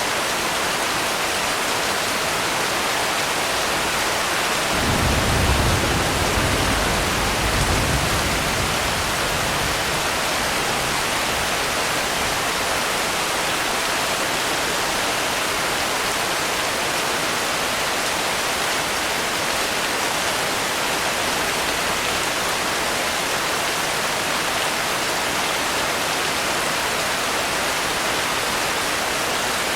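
Steady heavy rain, an even hiss. About five seconds in, a low rumble of thunder swells twice and dies away within about five seconds.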